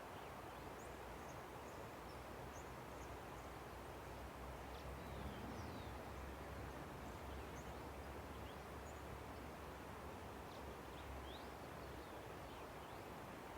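Steady, faint rushing of a river, with many short, high bird chirps and twitters scattered over it.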